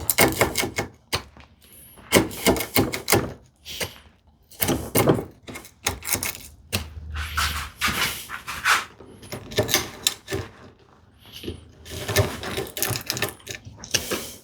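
Wooden mallet striking a bevel-edge chisel as it chops a mortise in a hardwood leg: quick runs of sharp knocks, broken by short pauses, as the mortise nears full depth.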